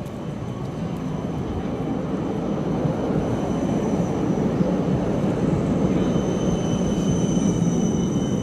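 A tram approaching close by: a rumble that grows steadily louder, joined about three seconds in by a thin, high, steady whine that strengthens as it nears.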